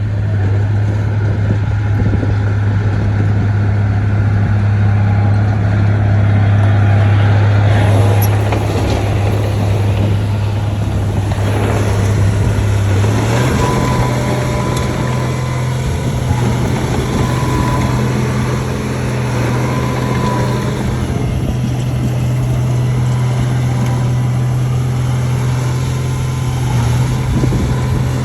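Heavy diesel engine of earthmoving equipment running at steady revs, its pitch stepping up slightly about halfway through.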